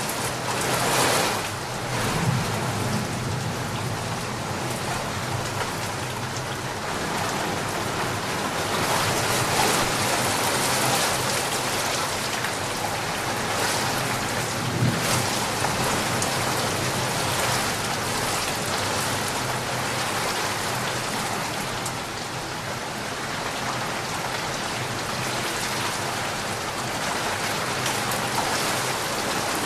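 Steady rain falling and pattering on surfaces, an even dense hiss, with a low rumble about two seconds in and again around the middle.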